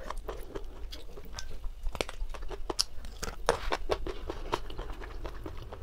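Close-miked chewing and biting of whole roasted chicken, with irregular crisp crunches and clicks, mixed with the meat being torn apart by hand.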